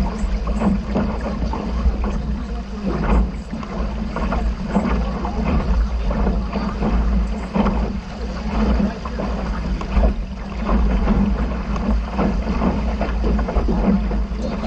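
Wind buffeting the microphone on a sailboat under way, with water rushing and slapping irregularly against the hull.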